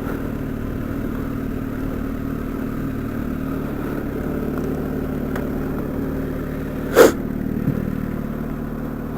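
Kawasaki Ninja ZX-6R's inline-four engine idling steadily, with one sharp knock about seven seconds in.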